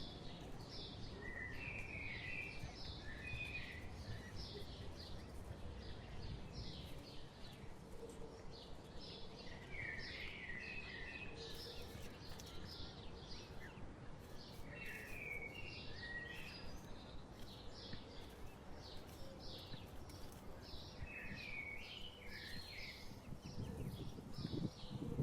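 A small songbird singing: a steady string of short high chirps, with a lower warbled phrase coming back about every five to six seconds, over a steady low outdoor rumble.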